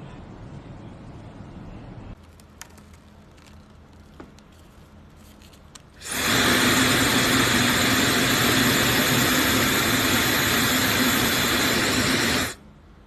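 Laifen SE high-speed hair dryer switched on about six seconds in, running with a loud, steady rush of air and a high whine, then cut off abruptly near the end. Before it starts there is only a quiet low hum with a few faint clicks.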